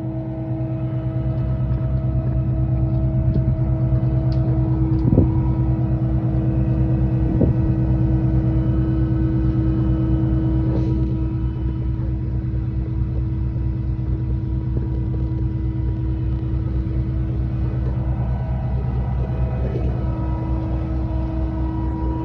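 Concrete pump's engine running steadily with a low, even drone, with two sharp knocks about five and seven seconds in.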